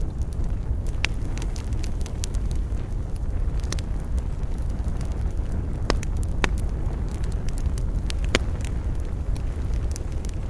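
Wood campfire burning, with sharp irregular crackles and pops over a steady low rumble.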